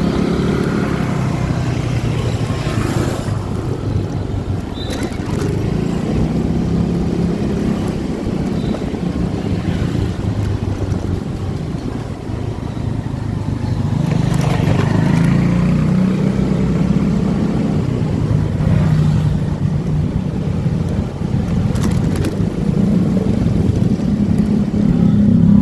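Motorcycle engine running steadily while riding, with road and wind noise; the engine note swells a couple of times as it speeds up, around the middle and again near the end.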